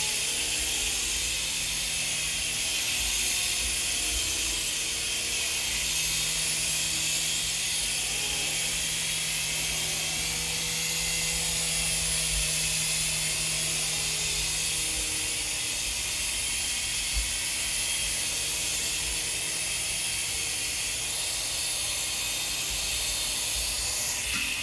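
Helizone FireBird 3-channel infrared micro RC helicopter flying: steady whirring hiss of its small electric motor and rotors, its pitch shifting now and then with the throttle.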